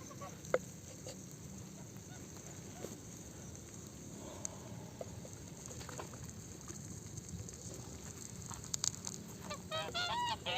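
Geese honking: a quick run of short calls starts near the end and grows louder, over a low steady background with a few faint clicks.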